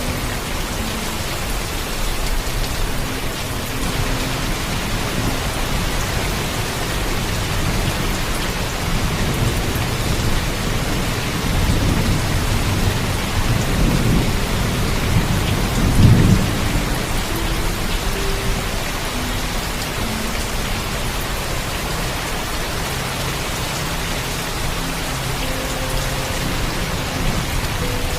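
Heavy rain falling steadily, with a low rumble of thunder that builds about a third of the way in, is loudest just past halfway, then sinks back under the rain.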